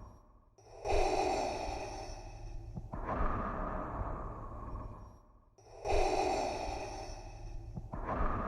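Darth Vader's mechanical respirator breathing, the scuba-regulator breath effect: slow, steady, hissing in-and-out breaths, two full cycles of about five seconds each.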